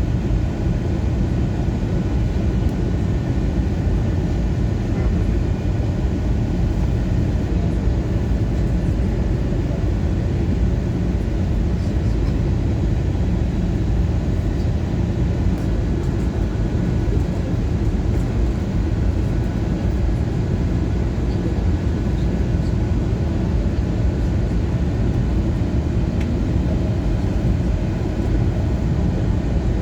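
Steady cabin noise of an Airbus A321neo airliner on final descent: an even, low rumble of airflow and engines, with a few faint steady tones above it.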